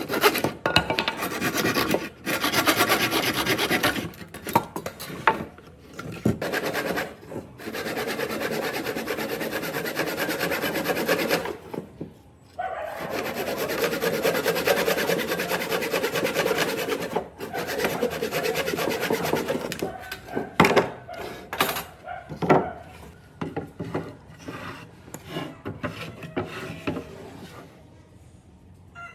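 Wood being abraded by a shaping tool in long continuous passes of a few seconds each with short breaks, then scattered knocks and scrapes over the last several seconds.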